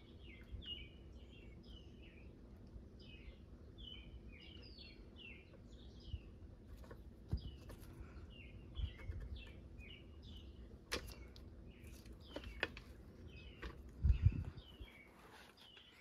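Small birds chirping in quick repeated phrases in the background, with light clicks and taps from handling the toy tractor and a heavier knock near the end.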